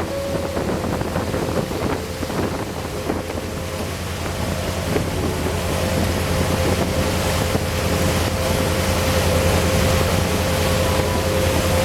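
Boat engine running steadily, with wind noise on the microphone and a rush of water; the engine grows gradually louder.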